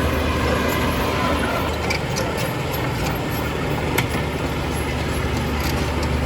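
Heavy earthmoving machinery running steadily with a deep diesel engine hum. A few light knocks come about two seconds in, and one sharp click about four seconds in.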